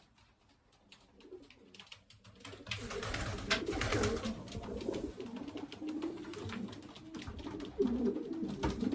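Racing pigeons cooing, starting about two and a half seconds in and going on steadily, with scattered light clicks from the birds moving.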